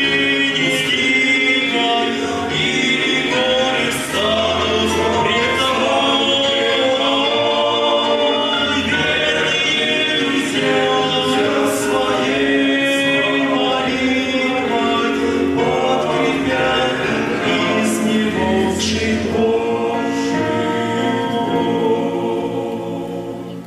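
Men's choir singing a Christian hymn in Russian, several voices in harmony, fading out near the end.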